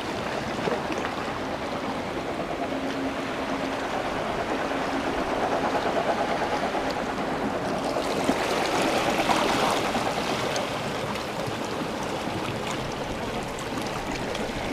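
Steady rush of sea surf and wind on the microphone at the shore, swelling a little in the middle.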